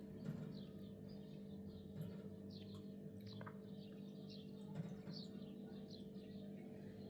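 Small birds chirping: many short, quick falling chirps, several a second, over a steady low hum.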